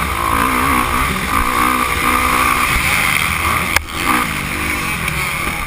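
Motocross bike engine, a Kawasaki KX450F four-stroke single, revving up and down as the throttle is worked on the track, with heavy wind noise on the camera. The engine note cuts out sharply for a moment about two-thirds of the way through, then picks up again.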